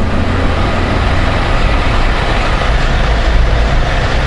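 Honda Gold Wing motorcycle and the motorway traffic around it making a steady low rumble of engine and road noise.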